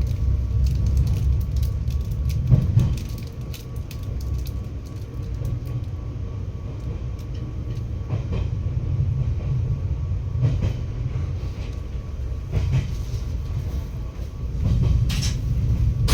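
Interior of an Izukyu 2100-series Resort 21 electric train under way: a steady low running rumble with scattered clicks and knocks from the wheels and track.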